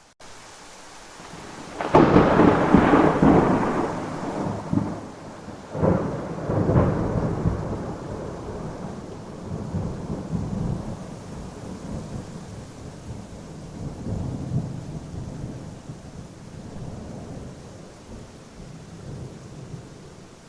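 Thunderclap during a rainstorm: a sharp crack about two seconds in, a second strong clap about six seconds in, then long rumbling that slowly fades, over the steady hiss of rain.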